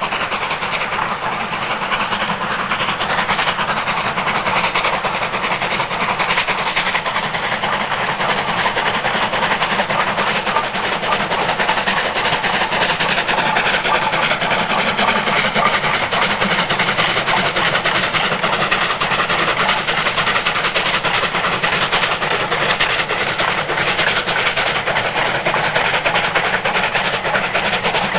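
A train running on the line: a steady, dense noise that holds at much the same level throughout.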